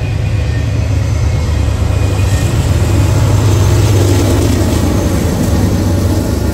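Freight train passing close by: autorack cars rolling over the rails, then the rear distributed-power locomotive, a Norfolk Southern GE AC44C6M, going by with its diesel engine running. It is a steady low rumble that grows loudest about four seconds in, as the locomotive passes.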